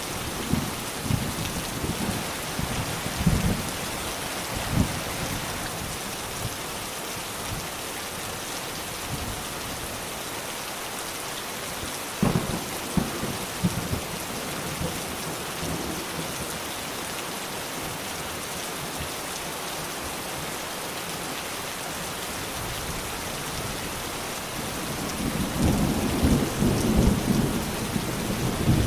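Steady rain falling, with rolls of thunder: low rumbling in the first few seconds, a sharp clap about twelve seconds in, and a long rumble building near the end.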